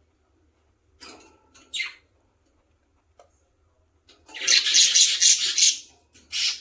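Baby budgies calling: two short high chirps about a second in, then a loud, rapidly pulsing squawk lasting about a second and a half, and a shorter one near the end.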